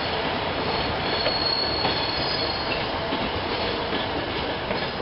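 Train wheels running on rail at low speed: a steady rumble with a faint clack or two, and a thin high-pitched wheel squeal for about the first two seconds.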